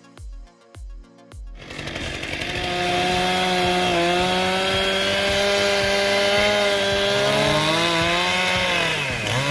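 Chainsaw running at high revs in a steady, even pitch, its speed dropping sharply near the end and then picking up again. Background music with a steady beat comes before it, and the saw starts about a second and a half in.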